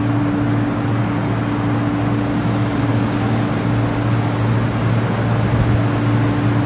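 Electric multiple-unit train on the MTR East Rail Line humming steadily at the platform, a constant low drone over a hiss of noise.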